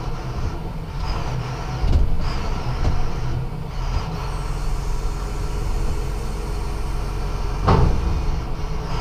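Truck's diesel engine idling steadily, with one brief sharp sound near the end.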